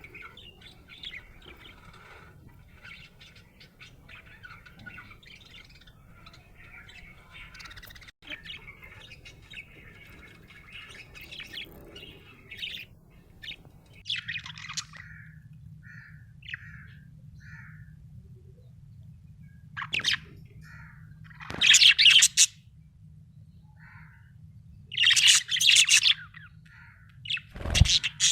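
Budgerigar chirping: soft, continuous warbling chatter for about half the time, then short separate chirps and several loud, sharp calls, with a low thump near the end and a faint low hum underneath.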